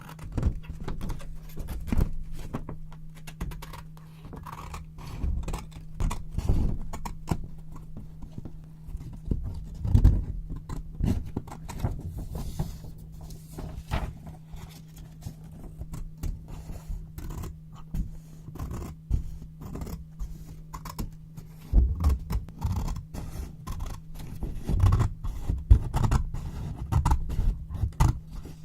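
Scissors cutting white paper close to the microphone: irregular crisp snips and paper rustles, in clusters that grow louder and denser in the second half.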